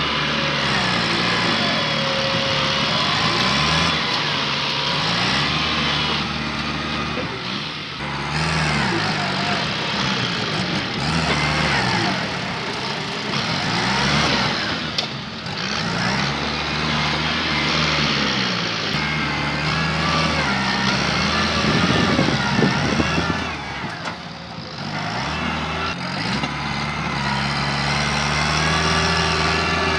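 Tractor engine working under load, its pitch rising and falling every few seconds as it revs and labours, over a steady clatter and rumble of machinery; a burst of sharp cracks comes about two thirds of the way through.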